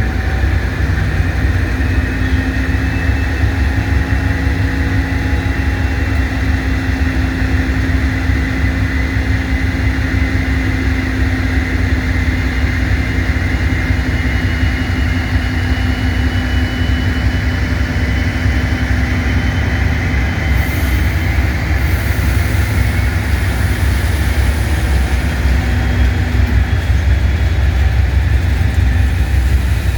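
A train running steadily close by: a loud, unbroken low rumble with faint steady whining tones over it.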